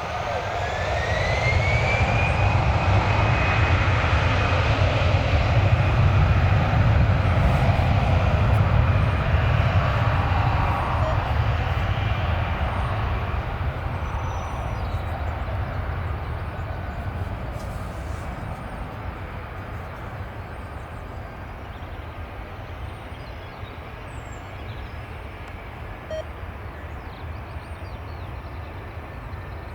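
A jet airliner's engines running as it passes, with a whine that rises over the first couple of seconds and then holds. The sound is loudest for about ten seconds, then fades away slowly.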